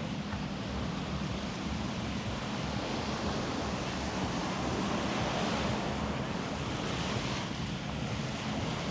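Surf washing onto the beach, a steady rush of waves, with wind on the microphone.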